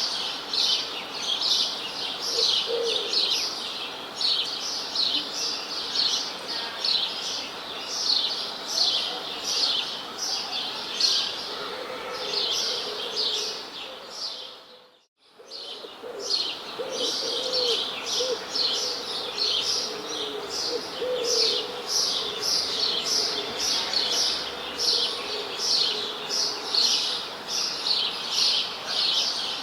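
A chorus of birds chirping in quick, dense trills, with a few lower calls under them in the second half. About halfway through, the sound fades out to near silence for a moment and comes back.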